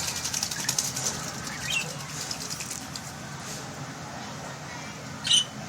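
Pet common myna bathing: rapid wing-fluttering splashes in water for about the first second, then a few short chirps, and a brief loud high call near the end.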